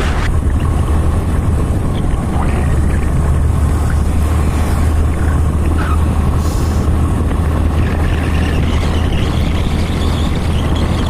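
Motorcycle on the move: its engine running under a steady wind rumble on the microphone. A higher whine comes in about eight seconds in.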